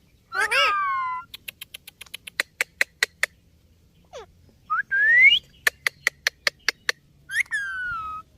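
Indian ringneck parakeet whistling: a falling whistled call near the start, a rising whistle about five seconds in and another falling one near the end. Between the calls come two runs of quick, sharp clicks.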